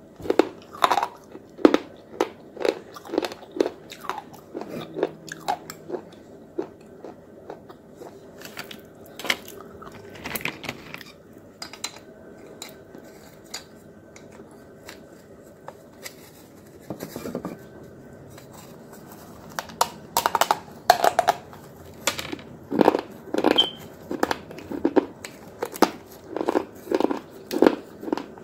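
Close-miked, crisp crunching as hard, brittle white chalk-like sticks and baked-clay pieces are bitten and chewed, in runs of sharp crunches about one a second, with a quieter stretch midway before a dense run of bites.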